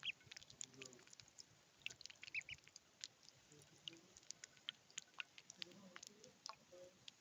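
Ducklings drinking and dabbling at water, heard as faint scattered clicks and taps of their bills, with a few short high peeps, one just after the start and another about two and a half seconds in.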